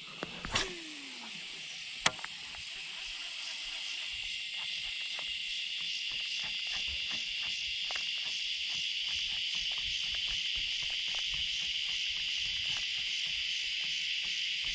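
Chorus of summer insects buzzing steadily and high-pitched with a fast pulsing, swelling over the first few seconds and then holding. A short falling sound comes near the start, and a sharp click about two seconds in.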